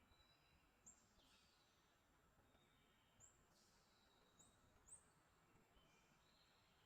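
Small birds chirping faintly: four short, high, sharp chirps, the last two close together, over a soft background of more distant thin bird notes.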